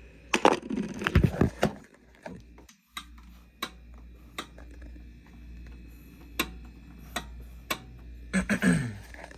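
Handling of a window air conditioner's casing: a few loud knocks at the start, then scattered sharp clicks over a low steady hum.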